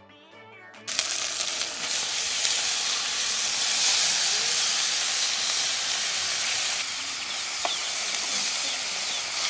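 Quiet music for about the first second, then a loud sizzle starts suddenly as a heap of raw cubed pork is tipped into hot oil with fried onions and green chilies in a large iron karai; the sizzling goes on steadily.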